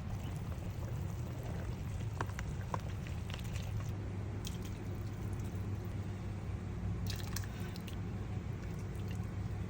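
Chicken tinola broth in a cooking pot, with wet squishing and dripping sounds and scattered small clicks over a steady low hum.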